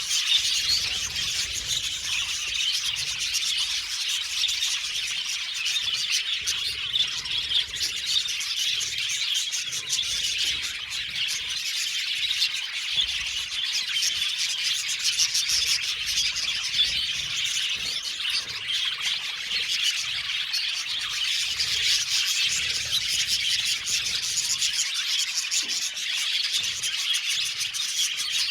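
A colony of budgerigars chirping and warbling together, a dense, unbroken chatter of many birds at once.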